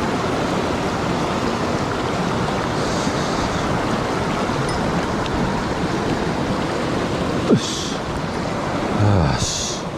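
Mountain stream water rushing steadily. A sharp click comes about seven and a half seconds in, and a brief louder swish near the end.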